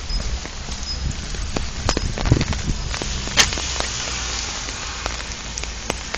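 Steady rain falling, with many sharp ticks of drops striking close to the microphone over a low rumble.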